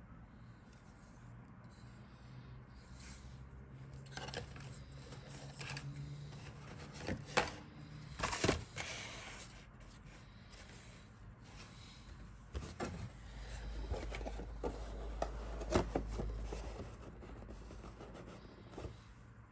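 Handling of a plastic model kit and its box: scattered clicks, taps and rustling, with the loudest knocks about seven and eight seconds in.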